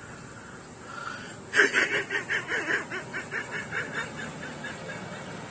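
A sudden burst of laughter about a second and a half in, quick rhythmic 'ha-ha' pulses about five a second that start loudest and fade away over a couple of seconds.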